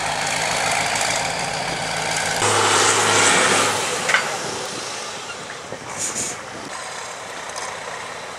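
Competition trial truck's engine running steadily. About two and a half seconds in, a louder hiss takes over for over a second, then a sharp click and a few fainter short hisses.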